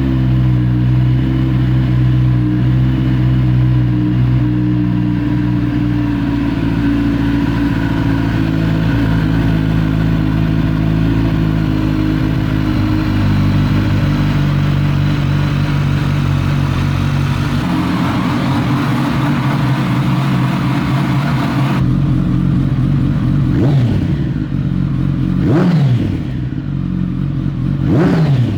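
2009 Kawasaki ZX-10R inline-four running through an MGP Growler slip-on exhaust, idling steadily. Later the note changes and the engine gets three quick throttle blips, each revving up and dropping straight back.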